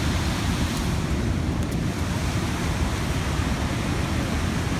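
Steady rushing of the canyon creek and falls, with wind rumbling on the microphone.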